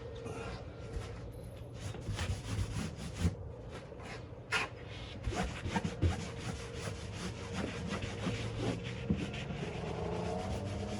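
Fabric rubbing and rustling against a plywood board as it is smoothed and stretched over the wood, with scattered small clicks and handling knocks over a steady low hum. A rising whine comes in near the end.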